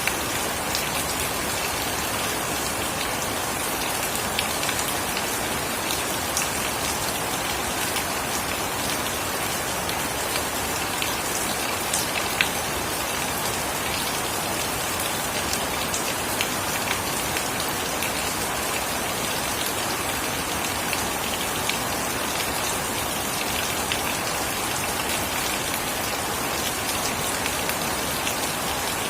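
Steady heavy rain falling, with scattered sharper drop hits standing out now and then.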